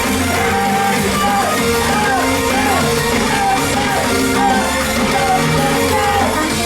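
A girl idol group singing live in unison over loud, amplified pop music with a steady band accompaniment.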